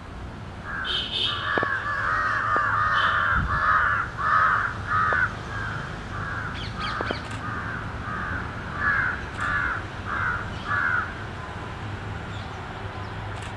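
Crow cawing repeatedly, a long run of harsh caws at roughly two a second that stops near the end.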